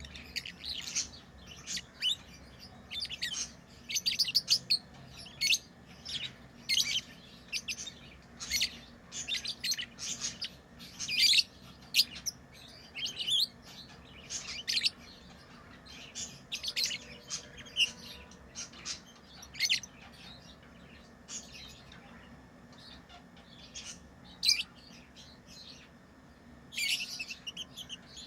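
Pet lovebirds chirping: many short, high-pitched chirps in quick clusters. They thin out for a few seconds past the middle and pick up again near the end.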